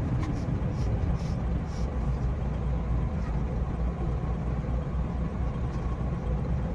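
JR West 227 series electric train running, heard from the cab: a steady low rumble of wheels on rail, with a few faint ticks in the first two seconds.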